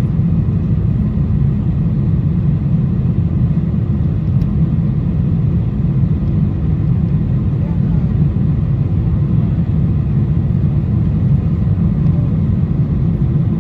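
Steady low rumble of a Boeing 747-400 airliner climbing, its engines and airflow heard inside the economy cabin.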